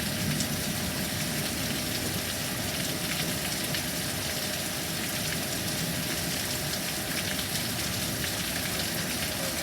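Heavy rain falling steadily in a thunderstorm, an even hiss with no thunderclap.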